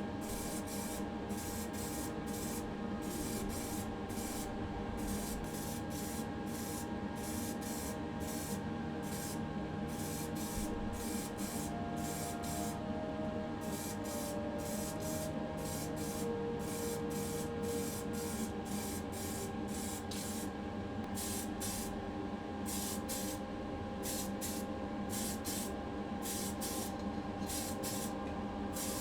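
Spray paint hissing in short repeated bursts, about two to three a second, as primer and then the colour coat go onto a diecast toy car body. A steady hum with held tones lies underneath.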